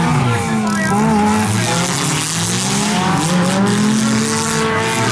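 Several demolition derby cars' engines revving up and down at once, their pitches rising and falling against each other.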